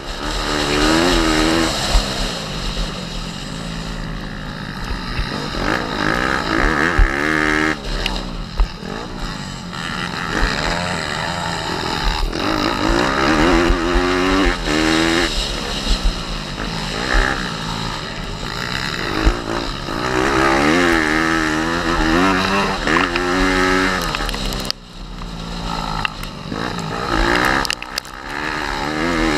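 Pit bike engine revving hard and easing off again and again, its pitch climbing and dropping every few seconds as the bike rides round the motocross track, with a short drop in revs near the end.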